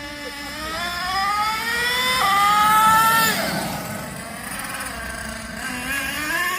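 Thunder Tiger MTA4 S28 RC monster truck's small nitro engine revving up under throttle, its pitch climbing with a sudden jump about two seconds in as the two-speed transmission shifts. It falls away as the throttle is released a little after three seconds, then climbs again near the end.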